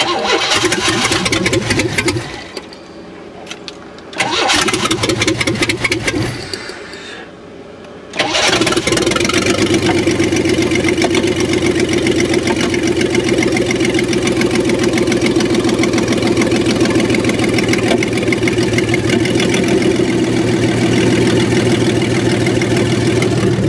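1994 Chevrolet Astro van's 4.3-litre V6 cranked on the starter twice without catching, then firing about eight seconds in and running steadily. The exhaust is disconnected, so the engine runs unmuffled.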